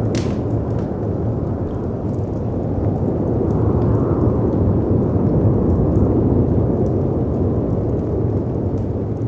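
Dense, steady roar of wind and sea surf, swelling a little midway, with the scattered crackles and pops of a wood fire; one sharper pop comes right at the start.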